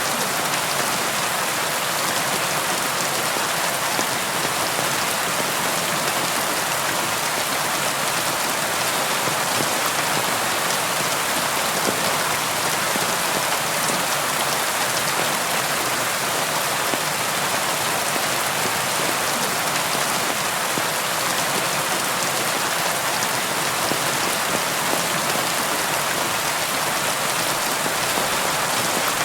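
Steady rain falling on a surface, an even hiss of many raindrops with no thunder or other events.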